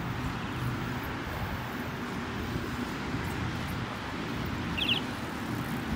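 Steady wind on the microphone and tyre noise from a bicycle riding along a paved path, with a brief high chirp about five seconds in.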